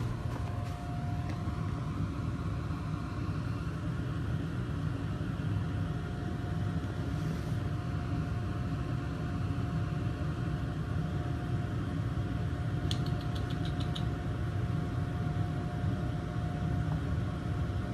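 A steady low mechanical hum with a faint constant tone over it, and a quick run of about six light ticks around two-thirds of the way through.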